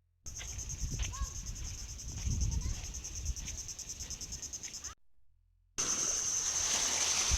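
Crickets chirping in a steady, evenly pulsing high chorus, with faint voices and a low rumble beneath. The sound cuts out briefly at the start and again about five seconds in.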